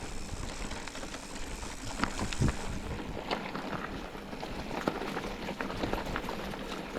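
Ice rattling in a container, many short clicks and rattles over a steady noisy rumble of travel.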